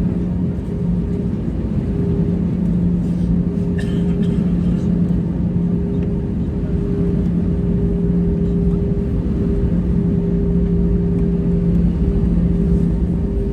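Cabin noise inside an Airbus A320-214 with its CFM56 engines running: a steady, loud rumble with a constant low hum and no change in pitch.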